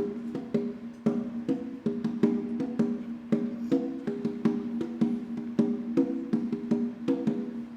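Congas playing alone: quick, evenly spaced hand strokes in a repeating pattern, the Amaggunju rhythm of Baganda traditional dance from central Uganda.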